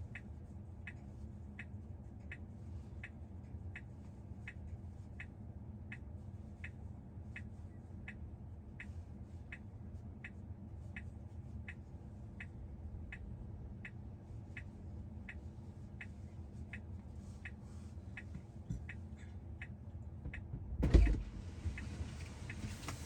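A car's indicator ticking evenly, about four ticks every three seconds, over a steady low cabin hum. The ticking stops near the end, where a loud thump and rustle come about 21 seconds in.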